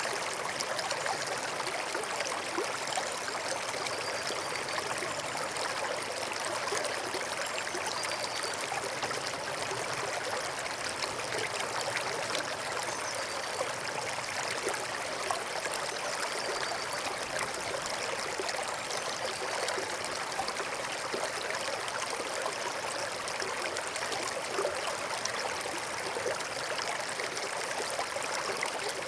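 Small forest stream babbling and trickling steadily.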